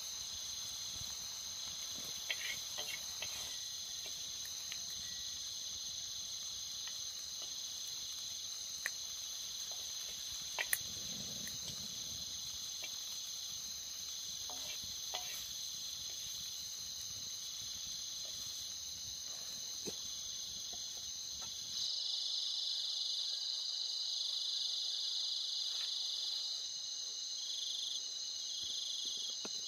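Chorus of crickets trilling steadily at a high pitch, with a few faint clicks early on. About two-thirds of the way through the low background drops away and the trilling grows louder and more clearly pulsed.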